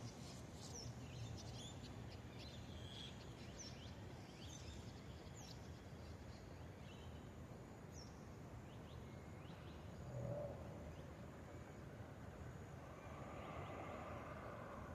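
Swallows giving short, high chirps, scattered through the first half and thinning out later, over a steady low background rumble. About ten seconds in there is a brief lower sound, and near the end a soft, broader rushing noise swells.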